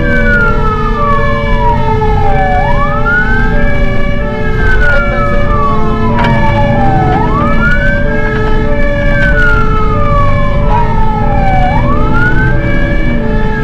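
Fire engine siren wailing: each cycle rises quickly, holds high, then falls slowly, repeating about every four and a half seconds. It sounds over a steady pulsing tone and the low rumble of the moving truck.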